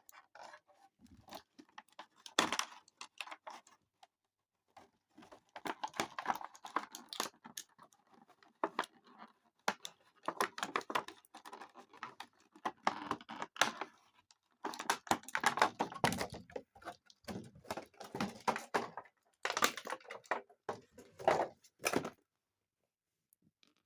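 Small plastic action-figure parts and their plastic packaging being handled, giving irregular bursts of clicking and crinkling that stop about two seconds before the end.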